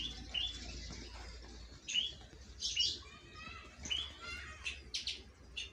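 Caged songbirds chirping: short, sharp, rising chirps every second or so, with a scratchy trill partway through, over a low steady hum.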